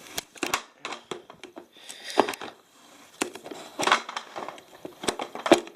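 Irregular plastic clicks and knocks from the hose and extension pipe of a Vax Energise Vibe cylinder vacuum being handled and taken apart.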